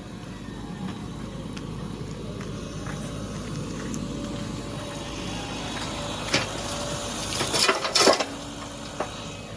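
Heavy vehicle's diesel engine running steadily, with a few sharp knocks about two-thirds of the way in, a louder cluster of clanks about a second later, and one more near the end.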